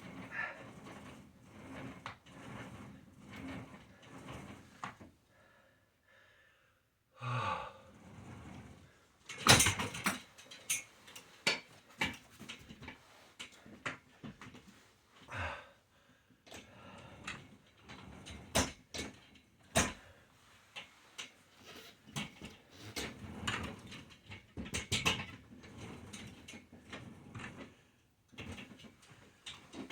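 Irregular knocks, clicks and rustles of a person moving about while working out, the sharpest knock about nine seconds in.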